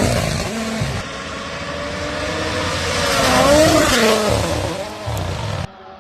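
Rally cars passing at speed under full throttle. The engine note drops as one car goes by at the start, and another car's note rises as it approaches and falls as it passes about four seconds in. The sound cuts off suddenly near the end.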